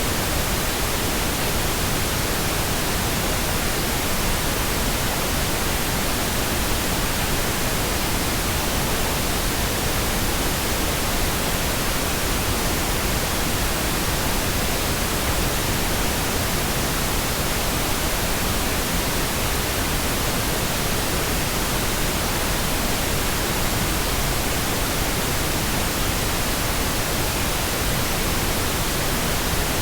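Steady synthetic pink noise: an even, unchanging hiss spread across all frequencies, with no tones or events.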